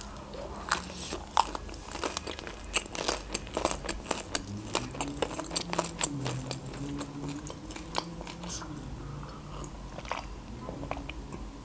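Close-miked chewing of a slice of homemade pizza: many crunches of crisp crust with wet mouth clicks and smacks, and a sip of juice near the end.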